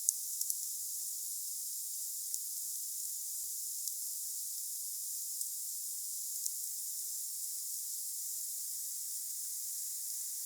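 Wood fire burning with a steady high hiss and a few sharp crackles and pops, a cluster right at the start and then single ones every couple of seconds.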